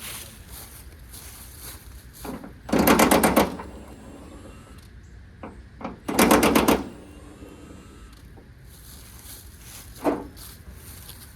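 Impact wrench hammering in two short bursts about three seconds apart, running out the bolts holding a van hood. A single sharp knock follows near the end.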